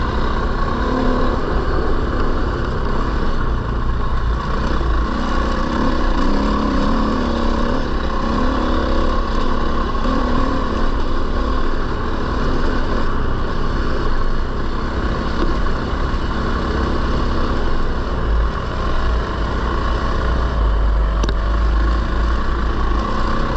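Husqvarna FE450 single-cylinder four-stroke dirt bike engine running under way, the engine note wavering as the throttle changes, with heavy low rumble on the microphone.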